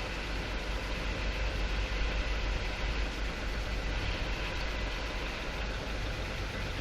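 Automatic car wash running: a steady mechanical rush with a heavy low rumble underneath, swelling slightly a couple of seconds in.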